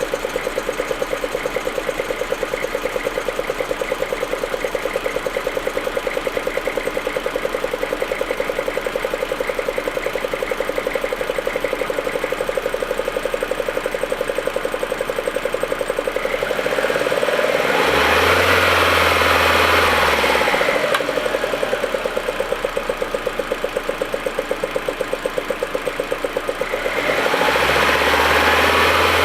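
Audi A4 1.8T turbocharged four-cylinder engine idling roughly with an uneven, stuttering beat, the misfiring rough idle it shows when cold. About two-thirds of the way through, and again near the end, a louder rushing noise with a low hum swells up over the idle.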